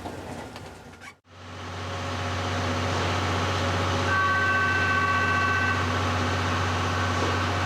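Steady running noise of a passenger train with a low hum, starting after a brief cut to silence about a second in; a faint steady high tone sounds for about two seconds in the middle.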